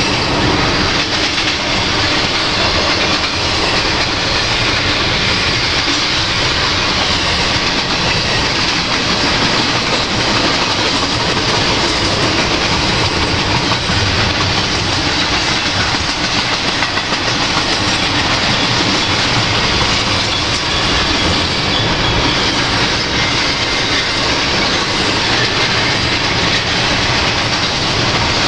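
Double-stack intermodal freight train's container well cars rolling past steadily, wheels running on the rails with a continuous, even rumble and clatter.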